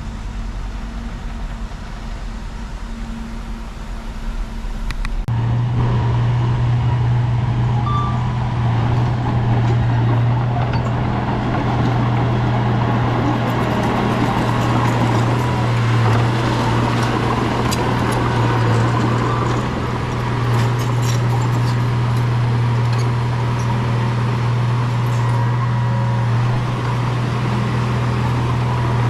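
Heavy diesel engine of a working bulldozer, a steady low drone. About five seconds in the sound jumps abruptly to a louder, steadier drone, with scattered metallic clanks and squeaks.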